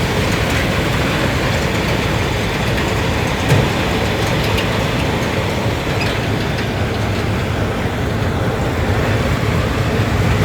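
Farm machinery's diesel engine running steadily under load, a continuous low rumble with mechanical clatter, and a brief knock about three and a half seconds in.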